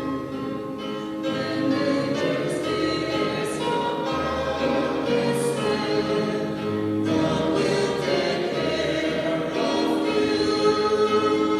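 Choir singing a Christian hymn, with long held notes over low bass notes.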